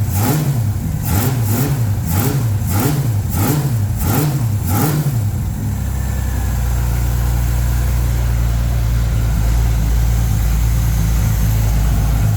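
A ute's engine through its exhaust, with the throttle blipped repeatedly, about two quick revs a second. About five seconds in it drops back to a steady, deep idle.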